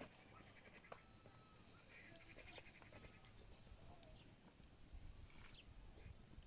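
Near silence with faint, distant animal calls: short high chirps and a brief fluttering trill about two seconds in.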